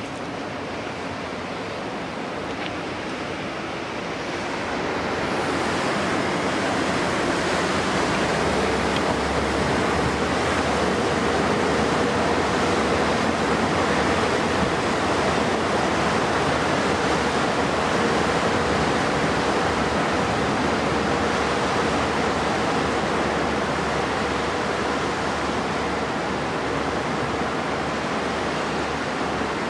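An inland cargo ship passing close: a steady rushing of water, with a low diesel engine hum underneath. The sound grows louder over the first six seconds or so, then holds.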